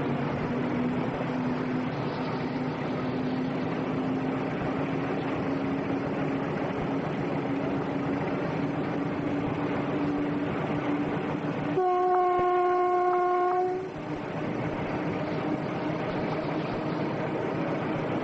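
Train running with a steady rumble and a low drone that rises slowly in pitch. About twelve seconds in, the train's horn sounds one steady blast of about two seconds.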